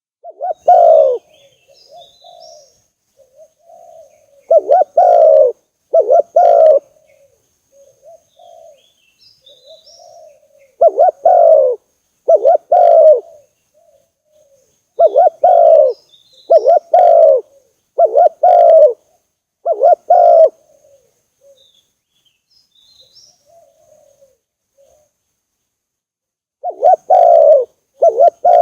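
Spotted dove cooing: loud coos come mostly in pairs about a second apart, with softer coos between them and a pause of a few seconds near the end. This is a dove lure call of the kind used to draw wild spotted doves into traps.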